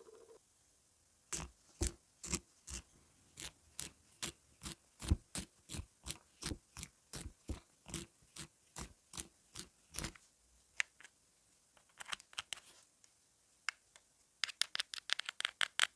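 A pencil being sharpened: a run of short, evenly spaced scraping strokes at about three a second. After a pause come a few scattered clicks, then a quick flurry of scrapes near the end.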